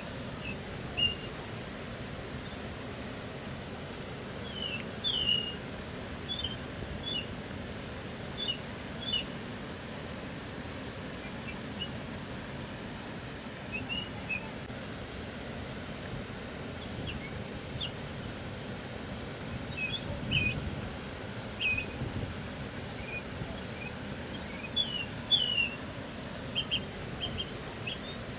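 Several songbirds calling: a short high down-slurred whistle repeats every second or two, with rapid buzzy trills now and then and scattered chirps. The calls grow busiest near the end, over a steady low background hiss.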